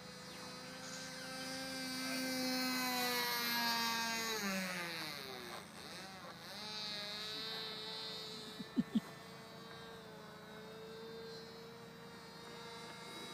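Small two-stroke glow engine (Thunder Tiger .07) of an RC model plane in flight, a high buzzing drone that grows louder, then drops in pitch as the plane passes by and carries on more distantly. Two brief sharp knocks come about nine seconds in.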